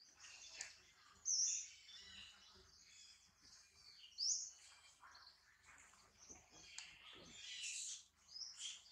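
Birds chirping and calling in the tree canopy: a run of short high chirps, with two louder rising chirps about a second and a half and four and a half seconds in.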